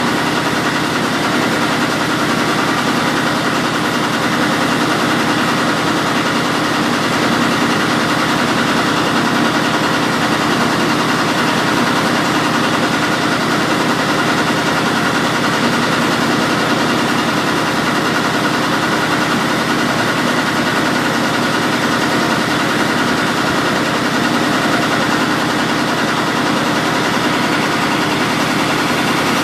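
Mitsubishi 8DC10 V8 diesel engine running steadily at idle.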